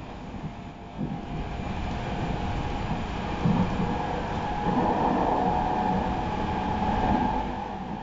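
Running sound inside a JR East 209-3100 series electric commuter train on the move: a steady rumble of wheels on rail with a few faint knocks. About halfway through it grows louder, with a higher hum rising over the rumble, then eases near the end.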